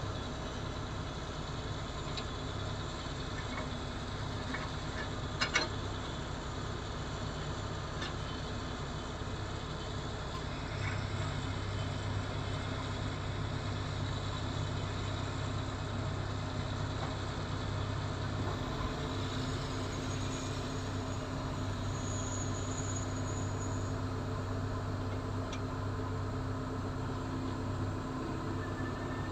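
Engine running steadily with a low hum, growing a little louder about eleven seconds in; a brief sharp click about five and a half seconds in.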